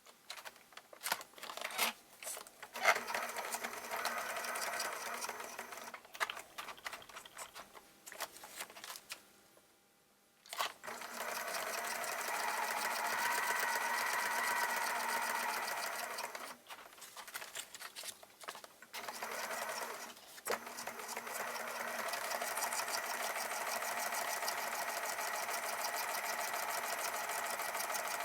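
Sewing machine stitching through paper journal pages in runs of several seconds, stopping and starting again; the longest pause comes about ten seconds in.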